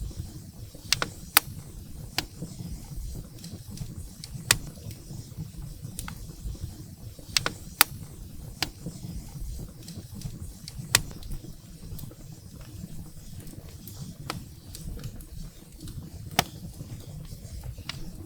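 Firewood burning in a fireplace: scattered sharp pops and crackles from the burning logs, a few of them louder snaps, over a steady low rumble.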